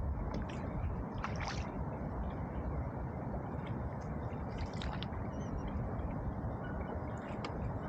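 Canoe paddle strokes: water splashing and dripping off the paddle about every three seconds, over a steady low rushing noise.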